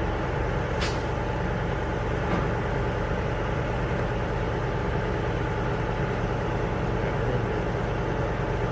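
A vehicle engine running steadily at idle, a constant low hum, with one short click about a second in.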